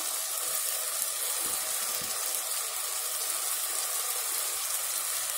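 Sliced onions frying in hot oil in a pot, a steady high sizzle.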